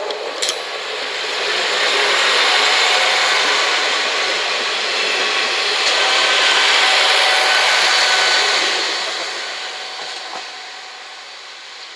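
Two-car KiHa 47 diesel railcar train passing close by at slow speed on a curve: the wheels rolling and grinding over the rails, with faint squealing tones, swelling as the cars go by and fading near the end. A couple of sharp clicks come about half a second in.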